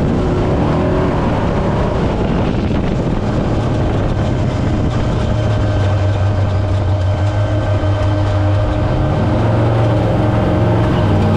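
Brenthel 6100 trophy truck's engine running under way in the desert, a steady drone over a constant rattle of the truck driving over rough ground, its pitch shifting a little near the end.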